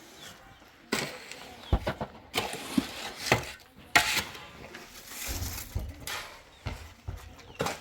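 A series of irregular knocks and scrapes, hard objects striking and dragging, with a rougher scraping stretch about two thirds of the way through.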